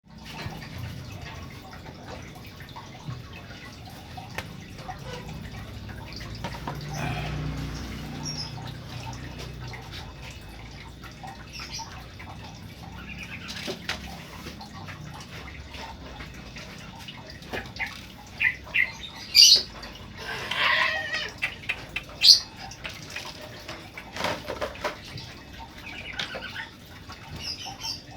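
Sooty-headed bulbul (trucukan) giving short chirping calls, mostly bunched about two-thirds of the way in, over a low background with scattered small clicks.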